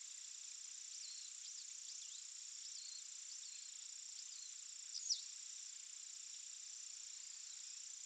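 A steady high insect trill, like autumn crickets, with a string of short, high, downward-sliding bird chirps between about one and five seconds in, the loudest near five seconds.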